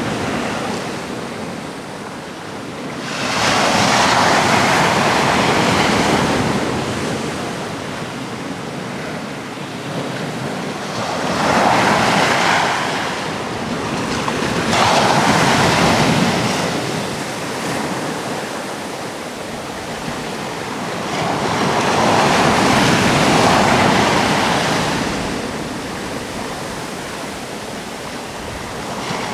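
Sea waves breaking on a rocky shore, the surf swelling and receding in slow surges roughly every few seconds, with some wind on the microphone.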